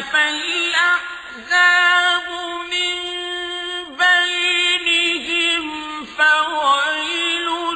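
A man's voice in melodic Qur'anic recitation, chanting long held notes with wavering ornaments and brief breaks between phrases.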